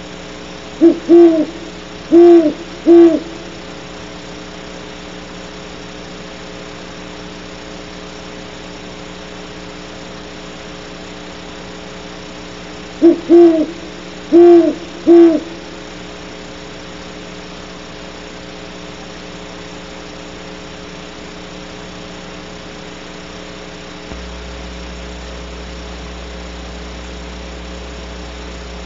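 Great horned owl hooting close by: two bouts of four low hoots, about twelve seconds apart, over a steady electrical hum.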